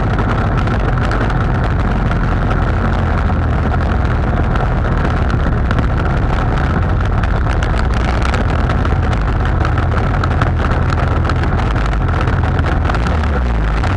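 A boat's motor running steadily at constant speed, with a continuous high whine over a heavy low rumble.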